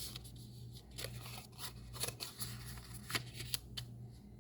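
Scored cardstock being folded and creased by hand: light paper rustles with scattered small clicks and taps, over a low steady hum.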